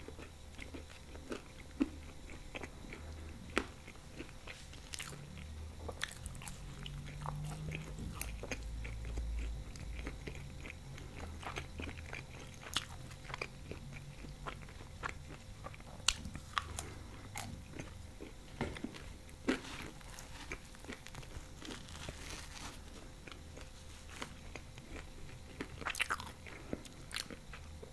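Close-miked chewing of thin-crust ham pizza: wet mouth sounds with many scattered sharp crunches and clicks as the crust is chewed.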